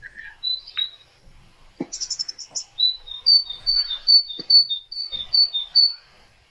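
A small bird singing: a couple of high chirps, then a short rattling trill, then a quick run of high chirps alternating between two pitches.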